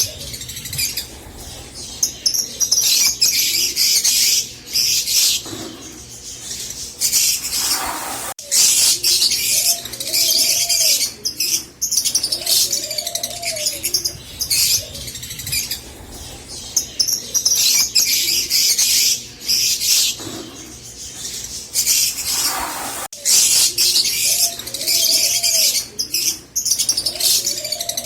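Rosy-faced lovebirds chattering in a dense stream of high chirps, with a lower, curved call recurring every few seconds beneath them.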